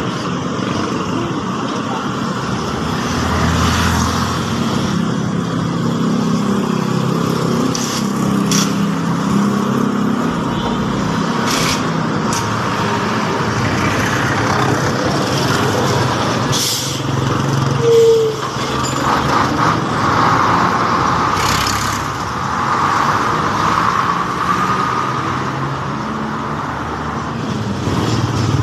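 Steady motor vehicle engine noise, with a few sharp clicks and a brief high tone about two-thirds of the way through.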